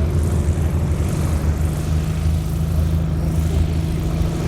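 Steady engine drone: a constant low hum with a few even tones, holding the same pitch throughout.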